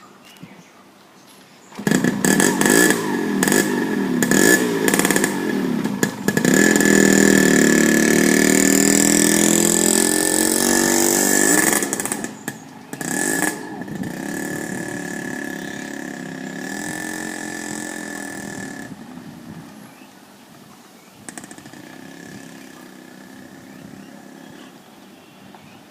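Motorcycle engine revving. Short rising and falling blips begin suddenly about two seconds in, then the revs are held high and loud for several seconds before dropping back and fading away.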